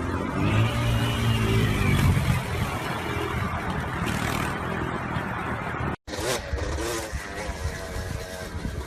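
Motorcycle engine revving, rising in pitch in the first couple of seconds, then running. A brief dropout about six seconds in is followed by more revving.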